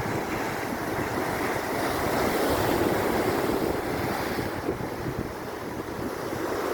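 Ocean surf washing in, the rush swelling about two seconds in and easing off again, with wind buffeting the microphone.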